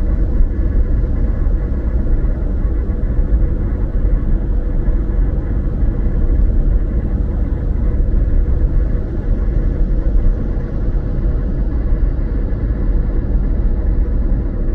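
Car driving at steady speed: a constant low rumble of engine and road noise, with no changes in pace.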